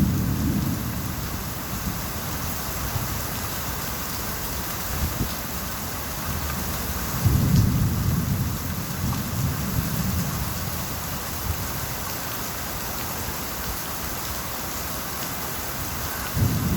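Steady rain with rolls of thunder: one rumble fading out at the start, another swelling about seven seconds in and dying away over a few seconds, and a third beginning right at the end.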